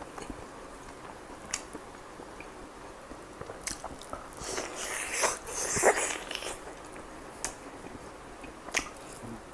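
Close-up eating sounds of chicken kalmi kabab being bitten into and chewed: a few separate wet clicks, with a louder stretch of biting and chewing about halfway through.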